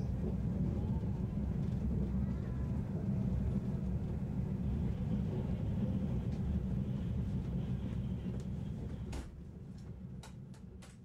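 Cabin running noise of a JNR 485 series limited express electric train: a steady low rumble of wheels on rails and running gear. About nine seconds in it drops in level, a few sharp clicks follow, and it fades out.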